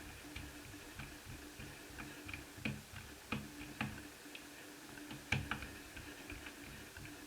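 Irregular light clicks and taps of a small screwdriver and screws being worked out of a laptop's plastic bottom case, the sharpest click about five seconds in, over a faint steady hum.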